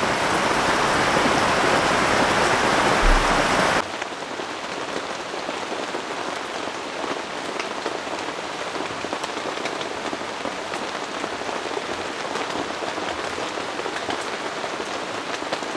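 Heavy rain pouring down in a dense, steady rush. It is loud for the first four seconds or so, then drops suddenly to a softer but still steady downpour.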